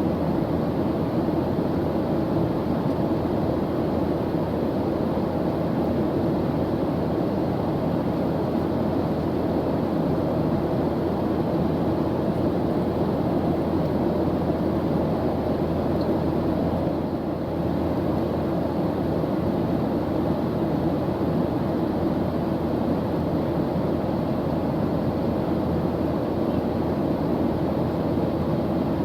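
Airplane engine noise: a steady low drone, strongest in the low and middle range, with a slight brief dip about seventeen seconds in.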